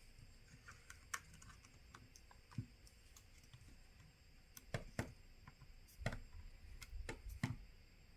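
Faint, irregular plastic clicks and taps as the mid frame of a OnePlus Nord N10 is pried away from the phone's body, its clips letting go a few at a time.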